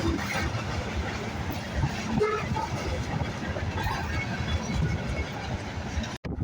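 A train rolling on the rails, a steady rumble of cars moving over the track, breaking off abruptly near the end.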